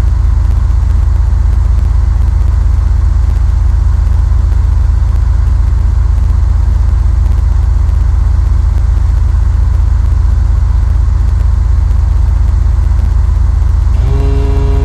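Cessna 172's four-cylinder piston engine and propeller running with a loud, steady drone heard from inside the cabin. About a second before the end, a steady tone with several overtones starts and holds.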